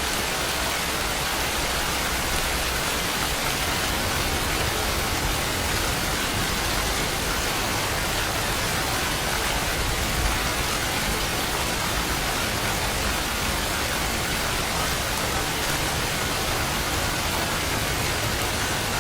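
Steady rain falling, an even hiss with no thunder or other sounds.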